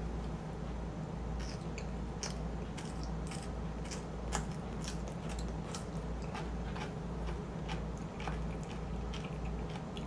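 Close-miked eating of shrimp chili on rice: a run of sharp, wet chewing clicks and crunches starting about a second and a half in, over a low steady hum.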